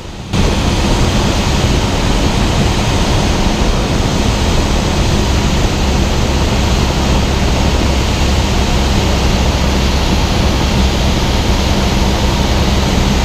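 Steady, loud drone of a Cessna 172 in flight: engine and propeller hum with a rush of airflow, unchanging throughout.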